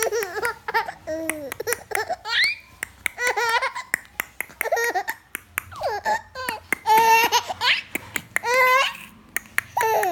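A baby babbling and laughing in short high-pitched squeals and coos, some rising and some falling in pitch, with many sharp clicks in between.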